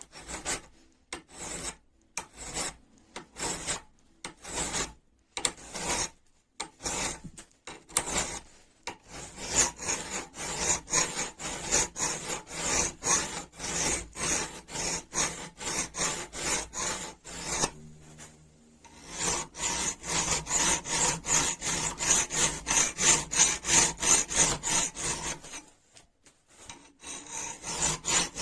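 Rust being scraped off a steel wrench by hand with back-and-forth rasping strokes. The strokes are slow and broken at first, then settle into a steady run of about three a second, pausing briefly twice.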